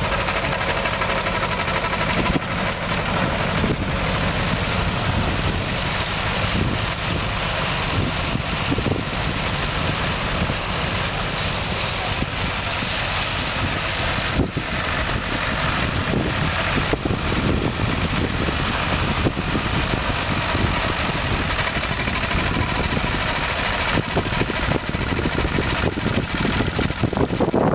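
Antique tractor engine running steadily, its sound even and unbroken.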